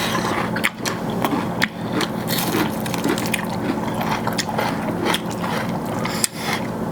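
Close-up eating sounds of rice and chicken gravy: wet chewing and squishing with many small clicks and scrapes.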